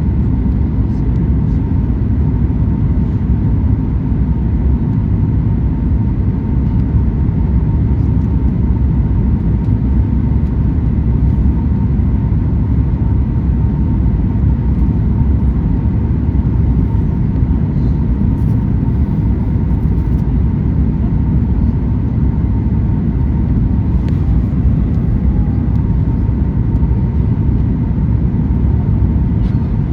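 Steady cabin noise inside a Boeing 737 MAX 9 in flight: the deep, even rumble of its CFM LEAP-1B engines and airflow, with a faint steady whine over it.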